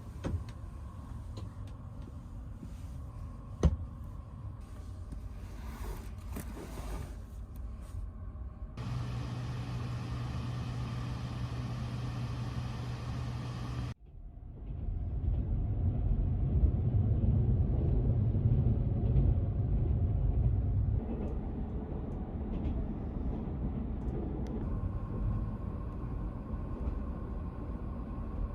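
Low steady rumble of a moving train, changing abruptly about nine and fourteen seconds in.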